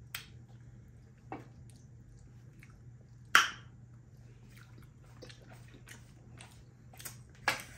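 Close-up mukbang eating sounds: wet chewing and lip smacks as rice and curry are eaten by hand, in a series of short smacks with a louder one about three and a half seconds in. A steady low hum runs underneath.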